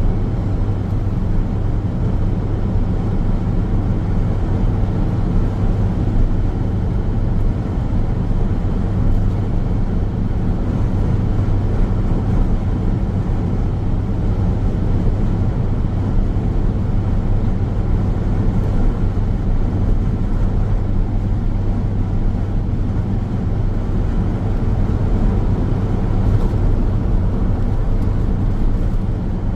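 Car driving along a road at a steady pace: a constant low rumble of tyres on the road surface and engine drone, unbroken and even in level.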